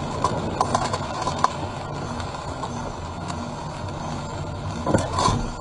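Car driving, picked up by a dashcam: steady road and engine rumble with scattered small clicks and rattles, and a louder knock about five seconds in.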